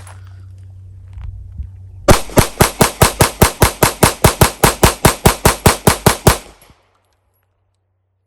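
Canik TP9 Elite SC subcompact 9mm pistol fired rapidly: a string of about twenty shots at about five a second, starting about two seconds in. It runs a 21-round magazine with a +9 extension empty, feeding without a stoppage. Before the shots there is a low steady hum and a couple of small handling clicks.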